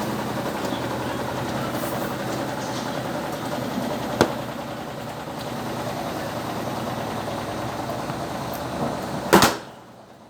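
Electrolux LTE12 top-loading washing machine running steadily mid-cycle. There is a sharp click about four seconds in, and a louder click near the end, after which the sound cuts off suddenly.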